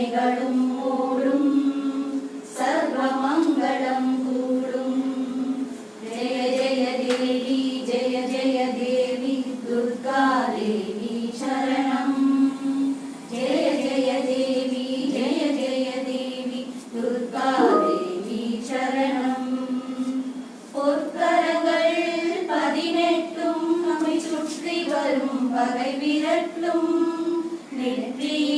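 Women singing together, a song of long held notes that bend and glide in pitch, with short pauses between phrases.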